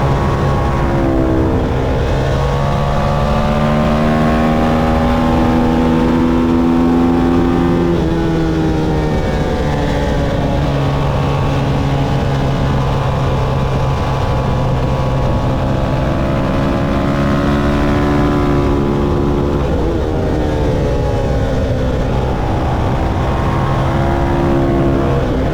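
Motorcycle engine running hard on a race track, its pitch climbing under acceleration, dropping about eight seconds in and again around eighteen to twenty seconds as it shifts and slows, then climbing once more near the end.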